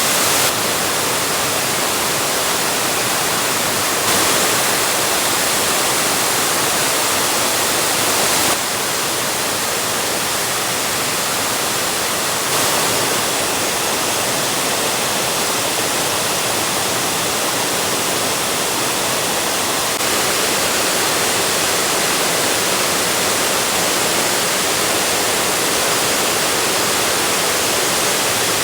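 Steady rush of a waterfall, a dense even noise with no voices. Its level and tone shift abruptly a few times, about half a second, 4, 8.5, 12.5 and 20 seconds in.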